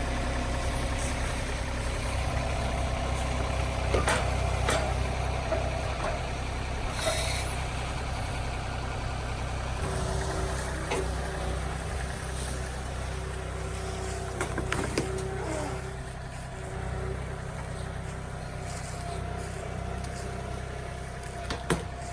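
An engine running steadily, with scattered knocks and clatters.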